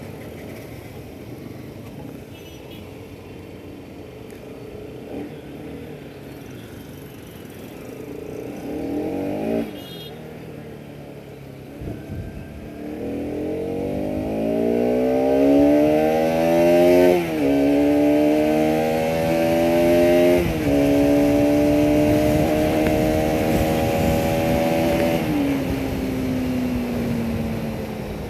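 Bajaj Pulsar RS 200's single-cylinder engine on the move: a low, steady running note with one brief rev, then hard acceleration in which the rising note drops sharply at two upshifts, holds steady, and falls away near the end as the throttle eases.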